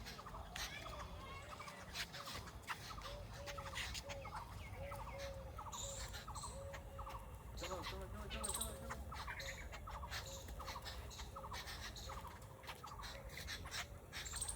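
Birds giving a long run of short, repeated calls, about two a second, with scattered sharp clicks among them.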